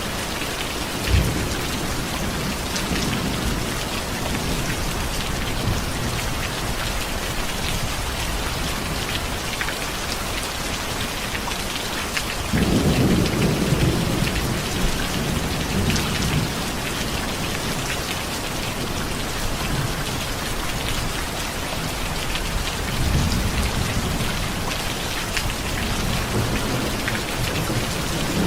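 Steady rain falling, with thunder rolling through it: a short low crack about a second in, a loud rumble starting near the middle that lasts a few seconds, and softer rumbles near the end.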